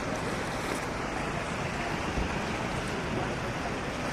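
Floodwater rushing past, a steady even noise.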